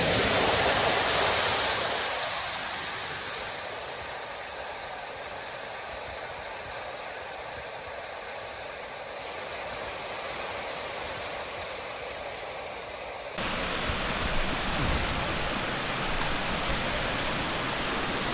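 Waterfall: a steady rush of falling water. About 13 seconds in it changes abruptly to a deeper, fuller rush with more low rumble.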